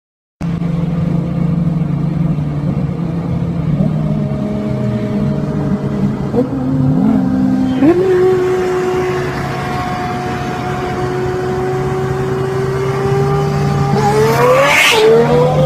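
Car engine pulling hard from inside a moving car. Its pitch steps up, then climbs steadily under acceleration. A brief loud hiss comes near the end.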